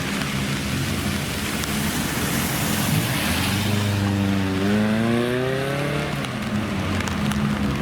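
A classic Japanese car's engine running, its pitch climbing for about a second and a half as it revs up a little past the middle, then dropping back to a steady note, with a steady hiss throughout.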